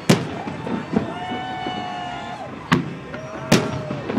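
Fireworks going off, four sharp bangs spread across the few seconds, over steady background noise with some held tones.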